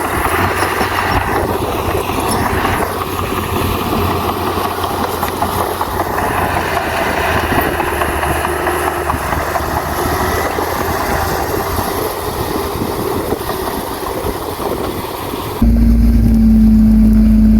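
Heavy earthmoving machinery at work: a diesel engine running steadily under a busy rattling clatter. About 15.6 seconds in, the sound cuts abruptly to a louder, steady hum with a strong single tone.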